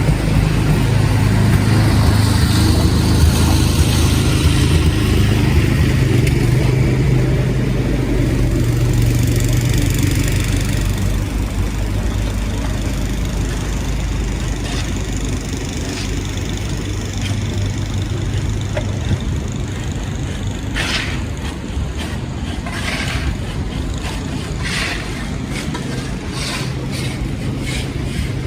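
Street traffic: a heavy vehicle's engine running close by with a deep steady hum that fades after about ten seconds, then a string of short sharp noises near the end.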